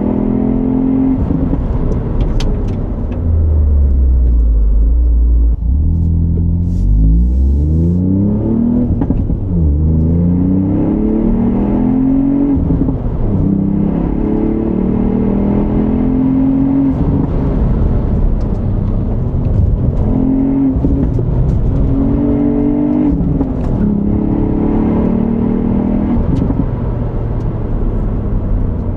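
2020 Ford Fiesta ST's turbocharged 1.5-litre EcoBoost three-cylinder engine and stock exhaust under hard driving, the pitch climbing in repeated revving pulls and dropping back between them.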